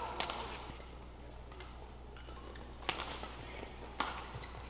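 Badminton rackets striking a shuttlecock in a doubles rally: a sharp hit at the start, then two more about a second apart near the end, with fainter ticks between, over a steady low hum.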